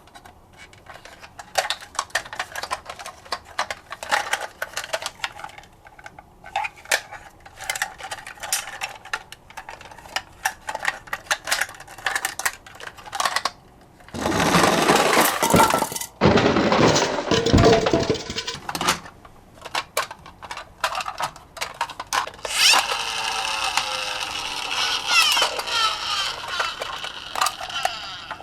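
Die-cast toy minicars clicking and clattering as they knock against each other and a box, with two longer stretches of louder rolling and rattling noise.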